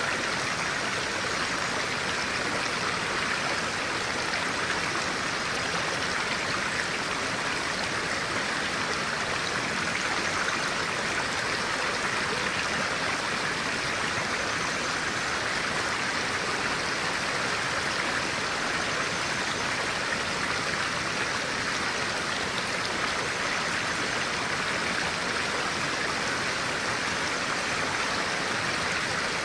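Clear stream water running steadily over rocks: a continuous, even rushing and babbling that does not change.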